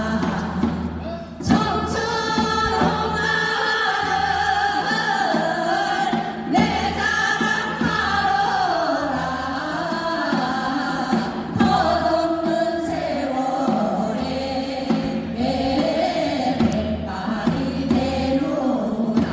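A group of voices singing together in unison with music accompaniment, the sung line gliding up and down in long held phrases.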